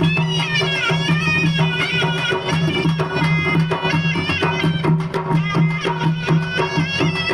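Odia folk music for an animal mask dance: a reedy wind instrument plays a bending melody over a low repeating note, with drums keeping a steady rhythm.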